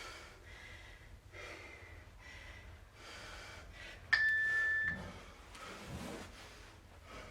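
Heavy breathing in and out, with one sudden steady high beep about four seconds in that lasts under a second.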